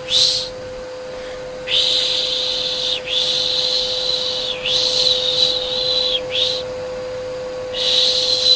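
Repeated soft shushing 'shh' sounds, each about a second and a half long and breaking off with a short falling dip, over a steady electric vacuum cleaner hum. The shushing pauses twice for about a second.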